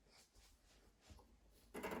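Near silence, then near the end a rubbing, scraping noise starts.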